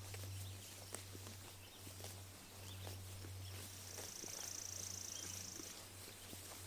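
Sheep grazing close by: irregular small clicks and rips of grass being torn and chewed. A steady low hum lies underneath, a few faint bird chirps come and go, and a high buzzing trill sounds for about two seconds in the middle.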